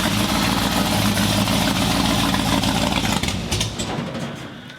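Cammed small-block Chevy V8 with a Lunati Bootlegger cam running loudly through dual glass-pack mufflers, then stuttering and dying away from about three seconds in. The stall comes from a fuel pump problem that the owners say is popping fuses.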